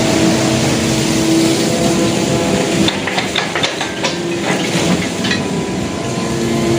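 Excavator's diesel engine running steadily, with a run of metallic knocks and clanks from about three to five seconds in.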